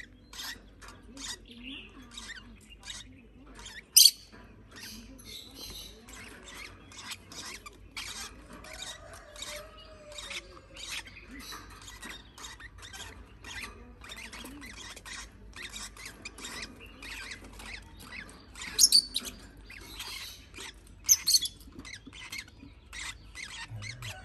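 Baby parrot chick being hand-fed, with fast clicking and faint squeaky begging sounds, broken by a few short shrill squawks about four seconds in and twice near the end.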